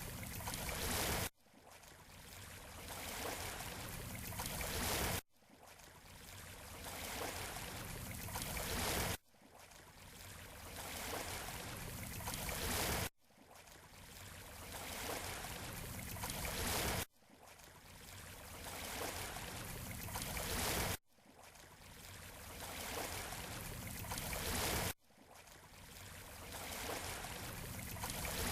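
Beach surf hiss that swells over about four seconds and then cuts off abruptly, repeating at even intervals about seven times: a short recording of a breaking wave looped over and over.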